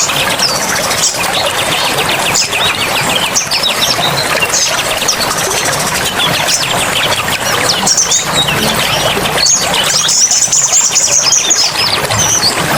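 Dense birdsong: many songbirds chirping and chattering in quick overlapping strokes, with a high trill about ten seconds in, over a steady rushing background noise.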